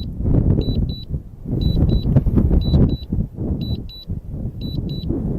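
Wind buffeting the microphone in gusts, with a DJI Phantom 3 remote controller sounding a repeated high double beep about once a second.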